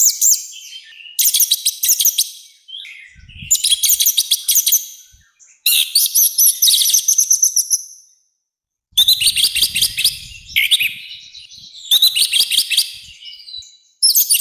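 Orange-headed thrush (anis merah) singing loudly in full song: a run of fast, varied, rich phrases about a second or so long, repeated with short pauses between them, with a short break a little past halfway.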